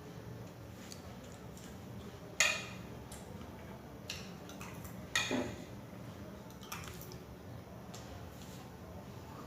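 Eating sounds: a few short, wet clicks and taps of someone eating rice, the loudest about two and a half seconds in, over a low steady hum.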